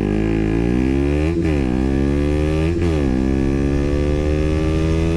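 KTM Duke 125's single-cylinder four-stroke engine, through an aftermarket IXIL Hyperlow exhaust, accelerating hard at full throttle. Its pitch climbs steadily, drops sharply at two quick upshifts about a second and a half in and near three seconds in, then climbs again through a longer pull in the next gear.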